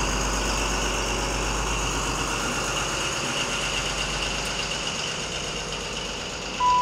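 Diesel train engine idling at a station platform: a steady rumble that slowly fades. Just before the end, a two-note station announcement chime sounds, falling from a higher to a lower note.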